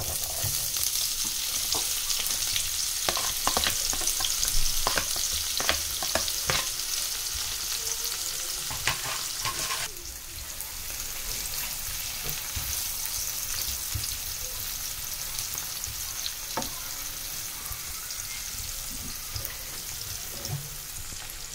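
Onions sautéing in a pan, sizzling steadily. During the first ten seconds a utensil stirring them clicks and scrapes against the pan. About halfway through the sizzle drops a little and goes on more evenly.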